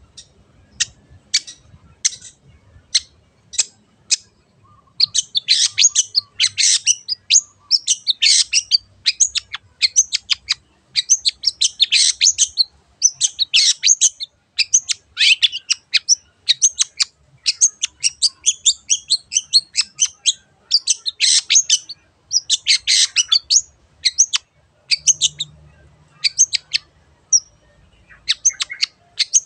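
Long-tailed shrike (cendet) singing loudly: single sharp calls about two a second at first, then long runs of rapid, varied high phrases broken by short pauses.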